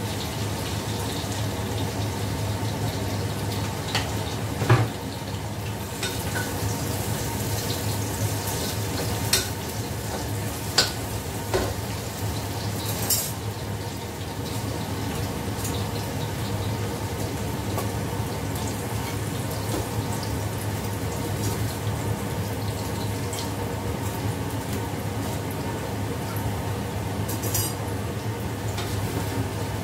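Food frying in a steel wok on a gas stove: a steady sizzle with a low hum underneath, broken by a few sharp clinks of a metal spatula against the wok and dishes.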